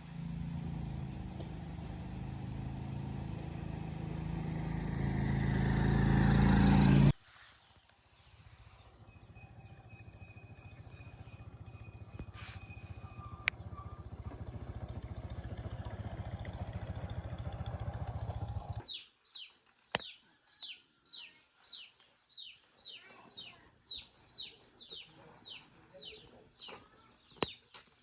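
A motorcycle engine running, growing louder for about seven seconds before cutting off abruptly, then a steadier engine hum that stops about nineteen seconds in. After it, short high chirps from chickens repeat about twice a second.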